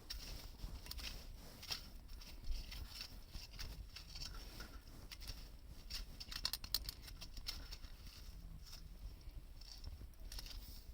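Wood campfire crackling, with irregular sharp pops and snaps and a quick flurry of them about six and a half seconds in.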